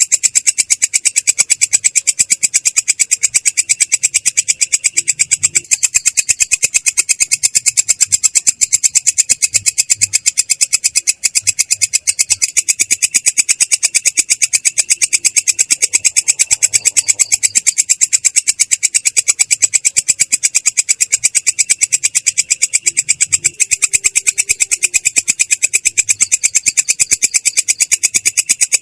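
Belalang kecek katydid singing its continuous rolling song: a fast, even train of high-pitched, clear but rough pulses that runs without a break.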